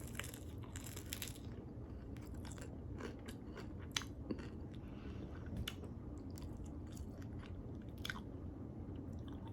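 Crispy air-fried lemon pepper chicken wings being bitten and chewed, with scattered crunches of the skin every second or two.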